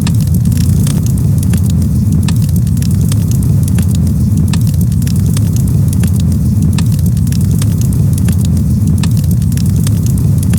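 Campfire crackling, with frequent irregular snaps and pops over a steady low rumble.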